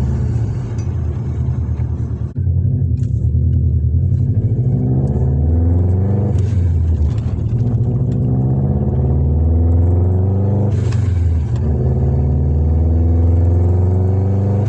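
Subaru WRX turbocharged flat-four engine with its boxer rumble, pulling under acceleration: the revs climb in several rising stretches, broken briefly about two seconds in and again near eleven seconds in, like gear changes.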